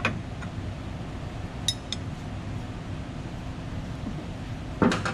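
Collet wrench and tool bit on the CNC router's collet giving a couple of light metallic clinks about one and a half seconds in, over a steady low hum, with a knock near the end.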